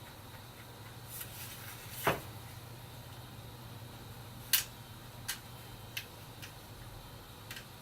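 A few sharp, separate clicks and taps from an SSD, its drive tray and screws being handled and fitted by hand, over a low steady hum.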